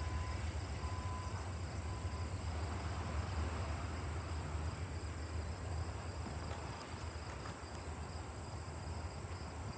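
Low rumble of a passenger train fading as it moves away, with crickets or other insects chirping in steady high tones.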